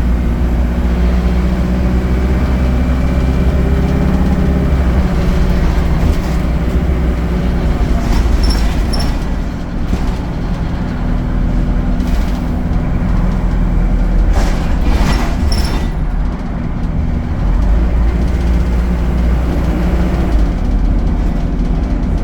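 ADL Enviro 200 single-deck bus heard from on board: the diesel engine and Allison automatic transmission run continuously, the engine note falling and rising as the bus drives. A pair of short, high beeps sounds twice, about 8 seconds in and again about 15 seconds in.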